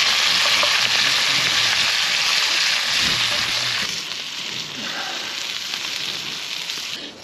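Potato wedges and T-bone steaks frying in pans over a campfire: a steady, loud sizzle with light scraping as a spatula turns the potatoes. The sizzle drops in level about four seconds in and fades out near the end.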